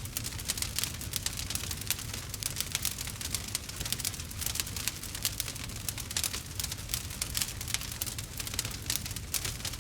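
Campfire crackling: a dense, irregular stream of small pops and crackles over a steady low rumble.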